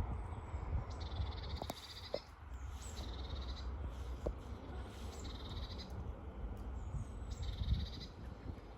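A songbird sings the same short phrase over and over, about every two seconds: a thin high note, then a fast trill. Wind rumbles on the microphone underneath.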